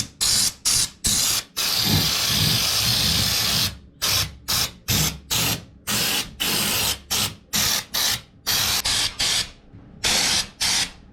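Pneumatic anticorrosion (undercoating) spray gun being fired in a string of short hissing bursts as the trigger is pulled and released, with one longer burst of about two seconds near the start. It is laying a light first coat over the welded patches.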